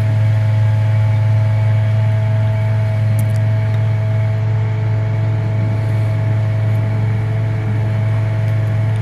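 An engine idling steadily: a loud, deep, constant hum with a few faint steady higher tones above it.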